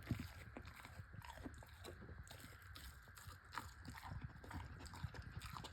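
Pit bull chewing and biting pieces of cooked meat: a faint, irregular run of small chewing and biting sounds.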